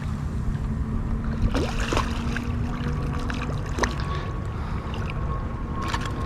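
Water lapping against a kayak hull under a steady low rumble, with a few light knocks.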